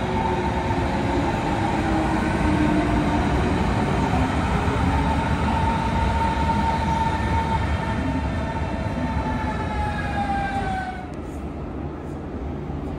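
Berlin S-Bahn electric train running into a station, its electric drive whining in several tones over the rumble of the wheels; the whine falls in pitch as the train slows. About 11 s in, the sound cuts to the quieter hum of an underground station.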